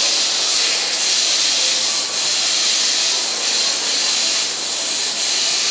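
Steady, loud hiss from a Seibu 9000-series commuter train standing at a station platform.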